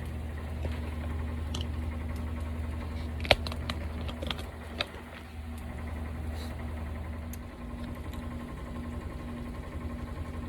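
Steady low hum of a kitchen appliance that stops about three-quarters of the way through, with a few sharp clicks of a utensil against cookware, the loudest about a third of the way in.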